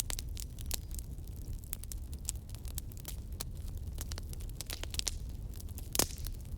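Wood logs burning in a fireplace: steady irregular crackling over a low rumble of the flames, with one louder pop near the end.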